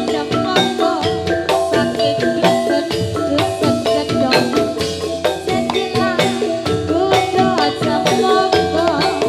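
Gamelan music for a jathilan horse dance: tuned metallophones ringing out a dense, fast pattern of notes over quick percussive strikes, playing without a break.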